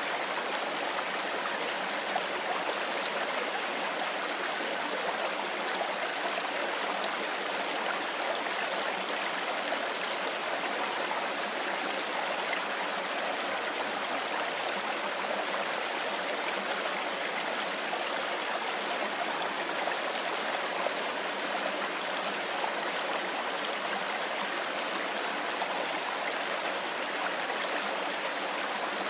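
Mountain river running over stones: a steady, even rushing of water.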